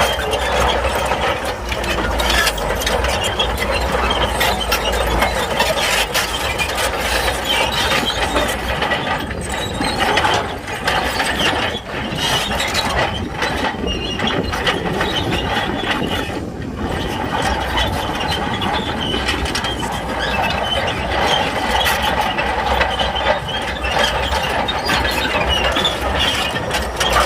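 Shantui crawler bulldozer at work: its steel tracks clank and squeal continuously over a low diesel engine rumble.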